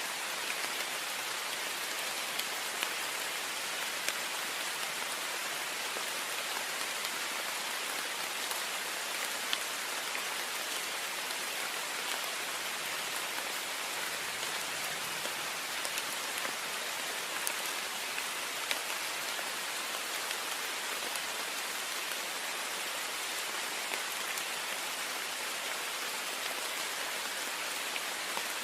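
Heavy rain falling on a window: a steady hiss with many small drop ticks scattered through it.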